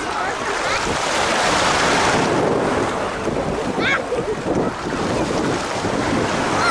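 Sea surf washing on a beach, with wind buffeting the microphone. A couple of short, high-pitched cries sound faintly behind it, about a second in and again near four seconds in.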